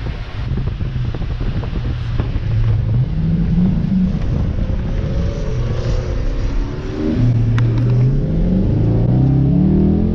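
Car engine rumbling and accelerating, its pitch climbing about three seconds in, dropping back, then climbing again in steps near the end.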